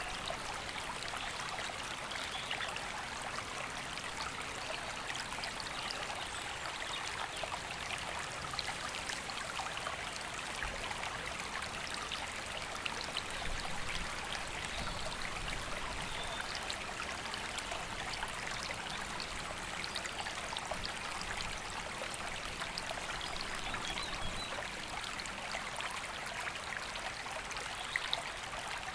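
Woodland river flowing: a steady rush of water with fine trickling over stones.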